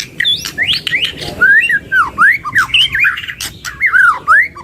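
White-rumped shama (murai batu) song: a fast, loud run of whistled notes that swoop up and down, mixed with sharp clicking chips.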